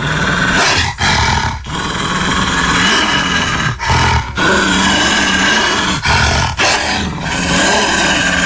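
King Kong creature roar sound effect: a string of loud, growling roars, one after another, with short breaks between them.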